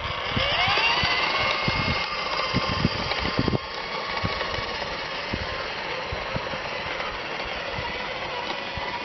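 Electric drive motors and gearbox of a battery-powered Power Wheels ride-on car: a whine that rises in pitch as the car pulls away, then runs steady, with scattered knocks and rattles from the car rolling over the ground.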